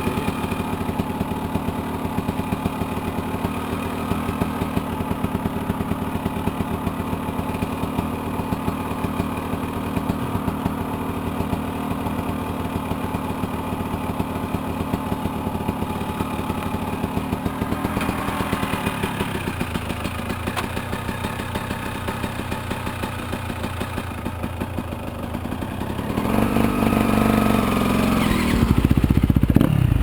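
Yamaha YZ250FX dirt bike's 250 cc single-cylinder four-stroke engine running steadily at a low idle, then revving up and getting louder in the last few seconds.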